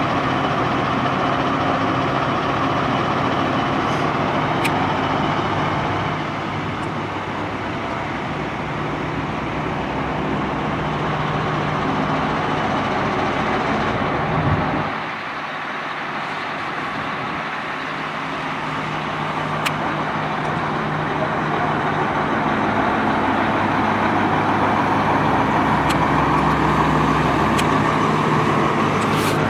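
Blue Bird TC2000 school bus engine running steadily. The low engine hum drops away briefly about halfway through, then the sound builds gradually toward the end.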